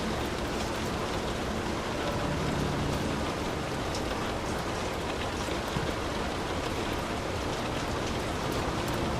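Heavy rain falling steadily on a hut, a dense, even hiss of drops.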